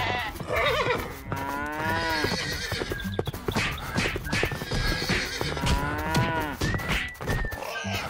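A horse whinnying a few times over cartoon background music with a steady beat.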